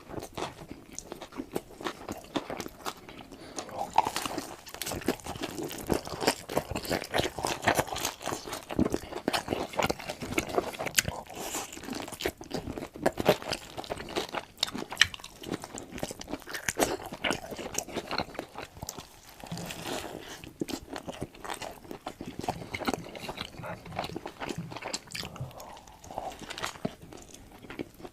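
A person eating burger and fries: crunchy bites and chewing, many irregular crisp crackles, going on steadily.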